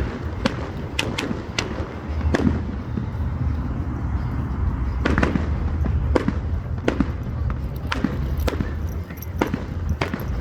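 Fireworks going off, a dozen or so sharp bangs and cracks at uneven intervals over a steady low rumble.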